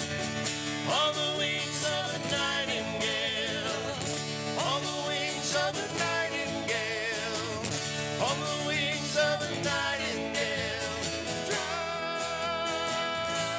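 Live acoustic country-folk band playing: strummed guitar chords under a melody with vibrato, in phrases about every two seconds.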